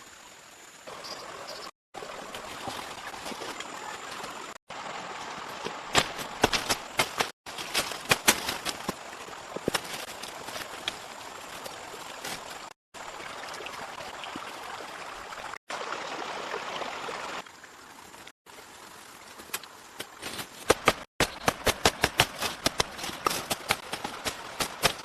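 Steady rushing water noise with clusters of sharp knocks, cutting off abruptly several times.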